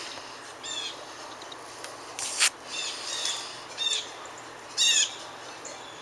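Wild bird calls in woodland: four or so short calls, each a quick arching note, with a louder noisy burst about two seconds in.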